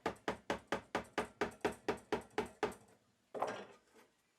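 A wood chisel being struck with quick, light, even taps, about five a second, as it cuts into the end grain at a mitered box corner, followed by a brief scrape of the chisel paring the wood. The light strokes keep the cut gentle so the fibres don't tear out.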